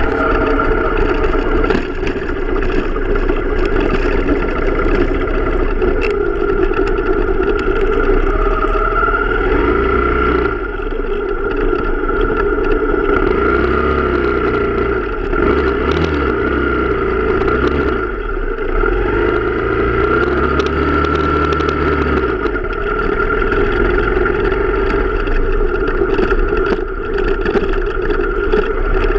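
Motorcycle engine running steadily under way, its pitch rising and falling a few times as the throttle changes.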